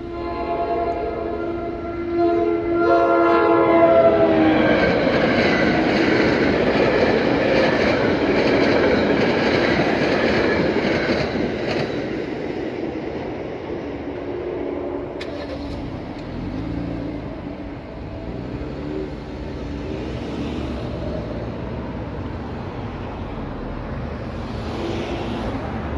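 NJ Transit commuter train sounding its horn in two blasts, then passing through the crossing at speed with a loud rushing rumble that fades after about twelve seconds.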